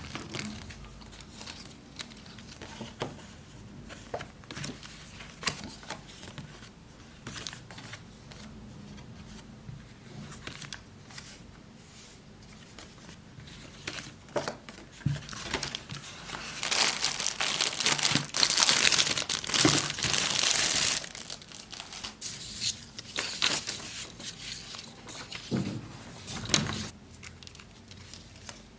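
Crinkling and rustling handling sounds with scattered light clicks, and a louder stretch of rustling lasting about five seconds past the middle.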